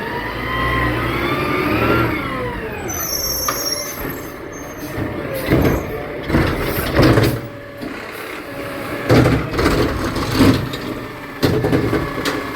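Garbage truck engine revving up for about two seconds, then dropping back, followed by a run of loud knocks and bangs.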